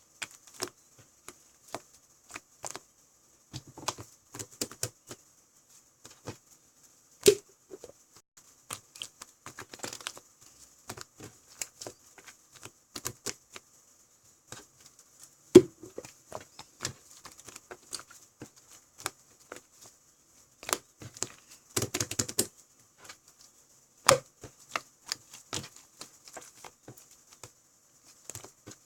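Irregular light clicks and taps, scattered unevenly with a few sharper knocks, over a faint steady high hiss.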